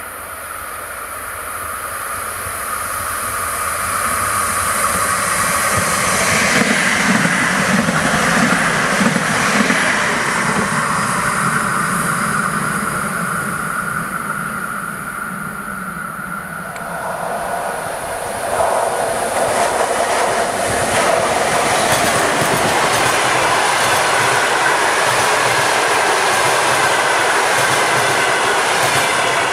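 A train approaching and running past, growing loud over the first several seconds and then fading away. About two-thirds of the way in the sound jumps suddenly to a passenger train's coaches rushing past close by: a steady, loud rumble of wheels on rail.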